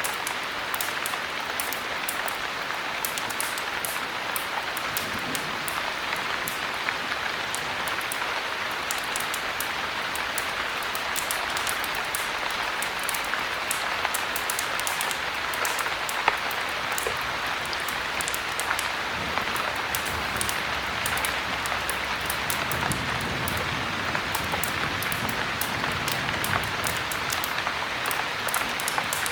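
Heavy rain falling steadily, mixed with frequent sharp crackles and pops of a wood fire burning in a fireplace.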